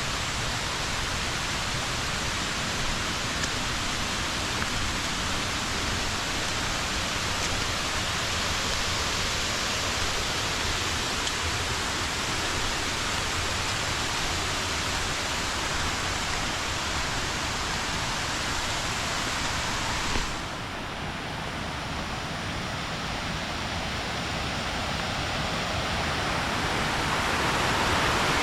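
Small natural waterfall rushing steadily. About twenty seconds in it briefly drops and turns duller, then it grows louder toward the end.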